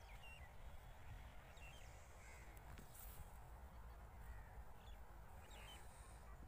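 Faint outdoor ambience: birds giving short calls every second or so, over a low rumble of wind on the microphone.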